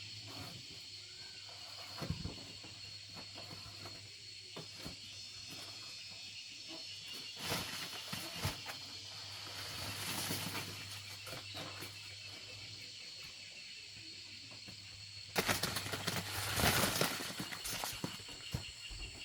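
Outdoor rural ambience: steady high-pitched insect chirring with scattered small clicks. A louder burst of noise starts suddenly about fifteen seconds in and lasts roughly two seconds.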